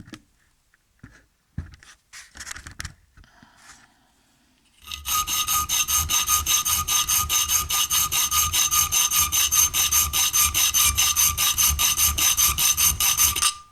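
Round file worked rapidly back and forth across a workpiece to cut a notch, about five strokes a second, starting about five seconds in after a few faint handling clicks. The file cuts quickly, a sign that the material is soft.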